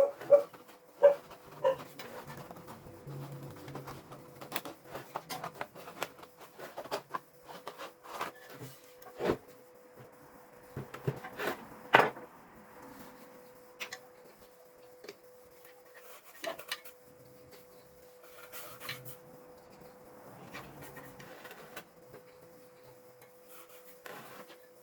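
Hand work on a loudspeaker driver: irregular scraping, rubbing and sharp clicks, the loudest near the start and about twelve seconds in, over a steady mid-pitched tone.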